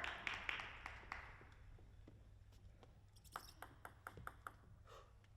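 Applause dying away over the first couple of seconds, then a scattered series of light, sharp taps of a table tennis ball in the hall between points.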